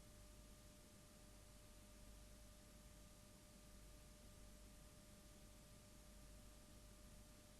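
Near silence: faint recording hiss with a thin, steady hum-like tone.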